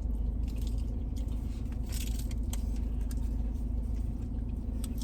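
Steady low hum and rumble of a car heard from inside the cabin, with scattered soft clicks and rustles of food wrappers being handled.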